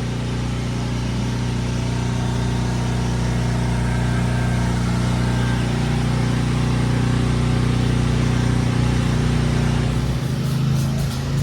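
Engine-driven generator running steadily at constant speed with an even hum, standing in for mains power during an outage. Near the end its note shifts slightly and a few light clicks come through.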